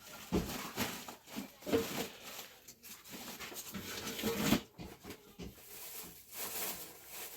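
Short animal calls, two of them clearer about two and four and a half seconds in, among irregular knocks.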